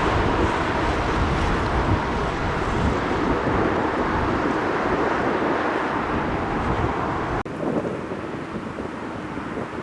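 Jet airliner engines roaring as the plane passes close by at the runway end, slowly fading. The sound drops sharply about seven and a half seconds in and carries on quieter.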